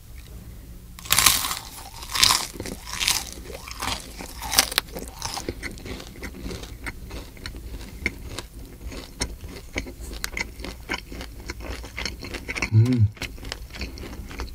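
Deep-fried battered loach (mudfish) being bitten and chewed: about five loud crunches in the first few seconds, then a long run of smaller crisp crunching chews. A brief hum near the end.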